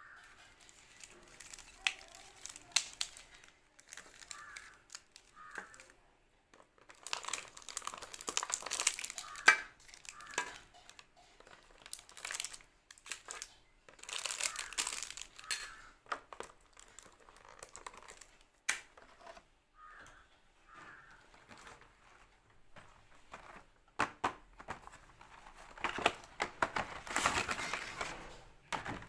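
Plastic snack and sweet wrappers crinkling and tearing as packets are opened and handled, in several long bursts with sharp clicks in between.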